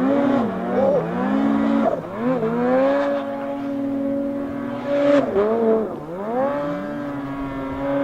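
Two-stroke mountain snowmobile engine revving, its pitch dropping and climbing again three or so times and holding steady in between.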